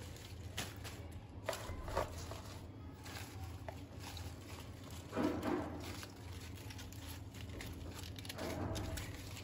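Light kitchen handling sounds: scattered soft knocks and rustles as food and containers are moved, with a louder bout about halfway through and another near the end, over a steady low hum.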